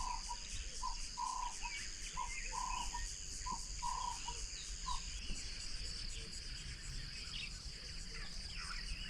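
A bird calling a run of about eight pitched hoots over the first five seconds, short and longer notes alternating, over a steady high insect trill from crickets or cicadas. Faint small-bird chirps come and go in the background.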